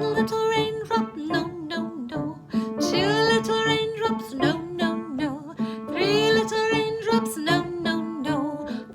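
A woman singing a simple children's song, accompanied by a strummed plucked-string instrument.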